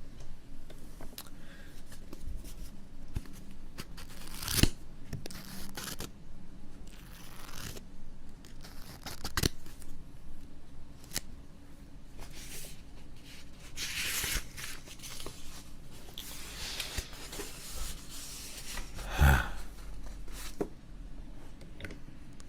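Rustling and handling noises close to the microphone, with scattered clicks and two louder knocks, about four and a half seconds in and near the end.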